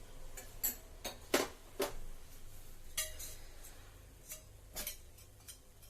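A metal teaspoon clinking and knocking against a bowl and ingredient containers, about eight light, irregular clinks while spooning ingredients into a marinade. The sharpest comes about a second and a half in, and a couple ring briefly.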